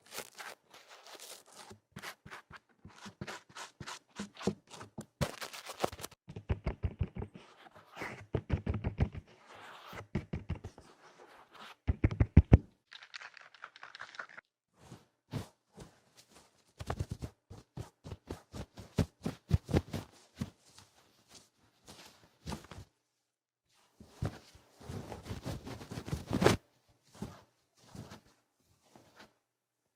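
Ear-cleaning ASMR: rough, noisy scratching, rubbing and knocking strokes against a microphone standing in for the ear. The strokes come in quick runs with short pauses between them, and the loudest run is about twelve seconds in.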